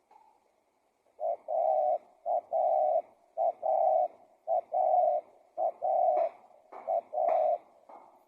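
Spotted dove cooing: a short note then a longer one, repeated about six times at roughly one phrase a second, starting about a second in.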